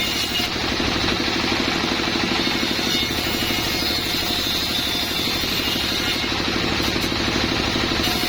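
Small sawmill's engine running steadily, an even note with a fast regular pulse.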